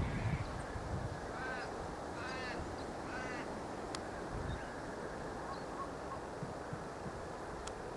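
A bird calling three times, about a second apart, each call a short arched note, over a steady outdoor background hiss.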